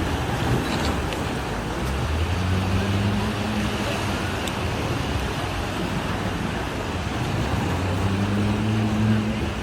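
Steady rushing seaside ambience of surf and wind, with the low hum of a passing motor vehicle's engine rising in twice, about two seconds in and again near the end.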